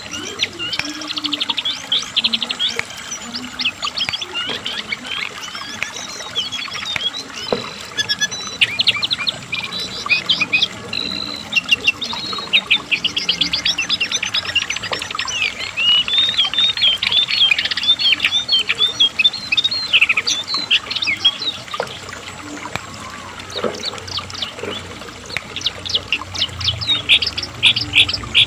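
Cingcoang (brown jongkangan) songbird singing in a long, unbroken run of fast chattering trills and rapid repeated high chirps.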